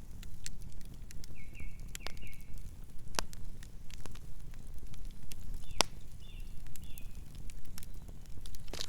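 Campfire burning with irregular crackles and a few sharper pops from the wood over a steady low rumble, with a couple of brief high squeaks.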